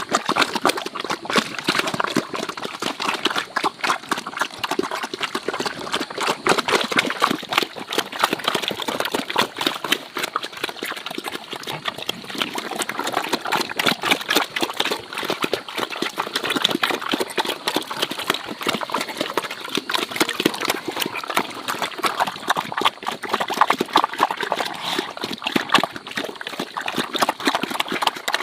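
Pigs eating wet feed: a continuous, dense run of wet smacking and slurping.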